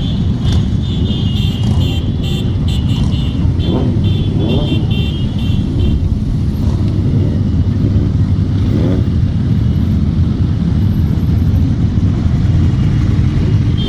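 Motorcycle engines running, with a few revs rising and falling. A string of short high-pitched beeps sounds during the first six seconds.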